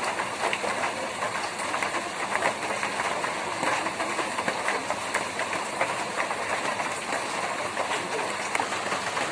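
Rain falling on a tin roof: a steady, dense patter of many sharp individual drop hits on metal.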